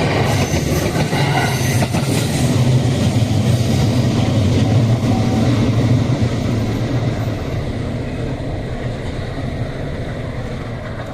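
JR West 281 series electric train passing: a steady running noise with a low hum and a few wheel clicks early on. It fades steadily over the last five seconds as the train moves away.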